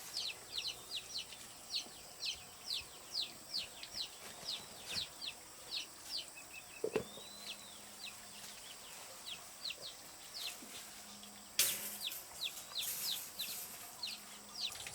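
Chicks peeping: a steady run of short, falling peeps, several a second. There is a single knock about halfway through and a short rustle a little later.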